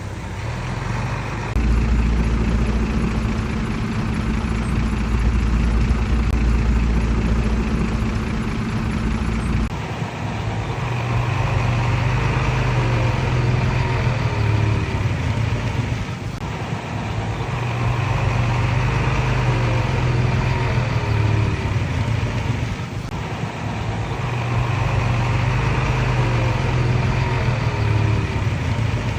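Diesel engine of a Komatsu D31PX bulldozer working. It runs hard and steady for about the first ten seconds, then settles into a repeating cycle every six or seven seconds of the engine swelling and easing, with squeaks over each swell.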